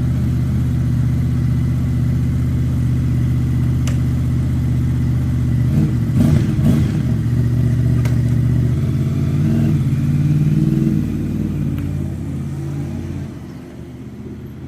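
Honda VFR800's V4 engine running steadily under way, with a change in revs about six seconds in. The engine note drops away over the last few seconds as it eases off.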